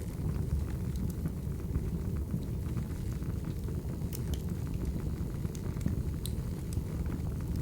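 Wood fire burning: a steady low rumble of flames with scattered sharp crackles and pops from the logs, a few louder pops about four and six seconds in.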